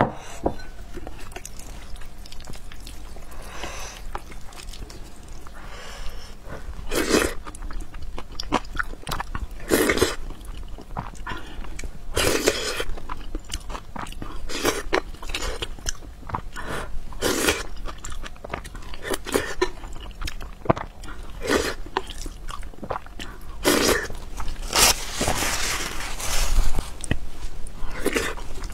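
Close-miked chewing and eating of spoonfuls of rice soaked in broth, with a fresh mouthful taken every couple of seconds.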